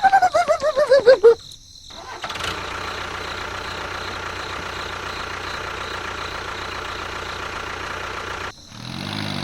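A warbling pitched sound falling in pitch for about a second and a half, then an engine running steadily for about six seconds, cutting off abruptly near the end.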